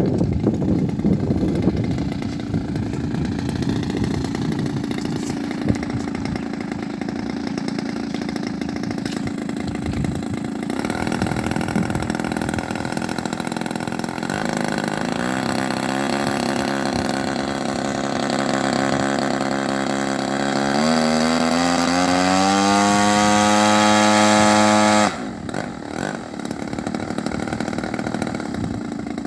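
Small gasoline engine of a model airplane running rough at low throttle, then revved up in steps from about halfway through and held at high revs, before it is throttled back abruptly near the end.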